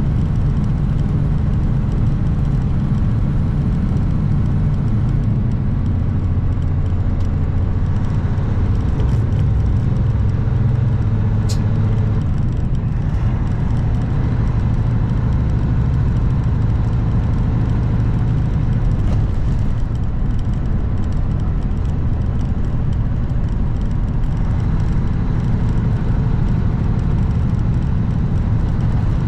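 2021 Kenworth W900 semi-truck's diesel engine running as it drives, a steady low drone with road noise. The engine note shifts about twelve seconds in.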